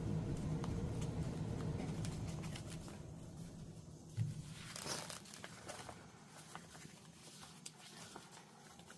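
Paper and cardstock being handled and rustled, with scattered light taps and a brief swish about five seconds in. A low hum fades out over the first few seconds.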